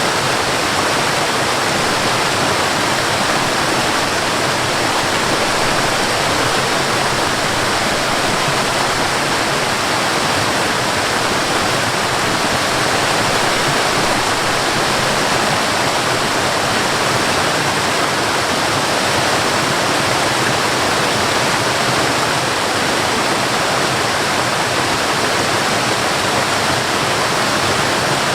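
Waterfall: water falling and rushing in a loud, steady, unbroken roar of white water.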